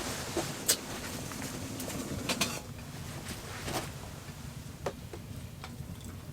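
A few separate light clinks and taps of a utensil against cookware, over a faint steady background.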